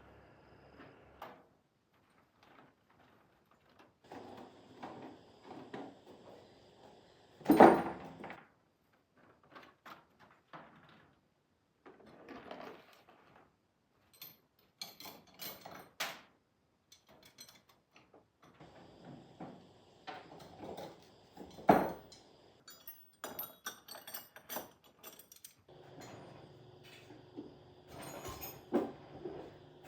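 Intermittent knocks and clanks of metal parts and tools being handled and set down. Two loud bangs stand out, about eight seconds in and again about twenty-two seconds in.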